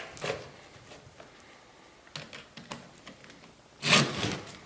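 Chainsaw chain teeth being hand-filed with a Stihl file sharpener: a few short rasping push strokes with light clicks between them, the longest and loudest stroke near the end.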